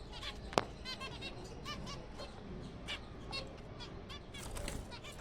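Colony of zebra finches calling: many short, repeated chirps from several birds overlapping, with one sharp click about half a second in.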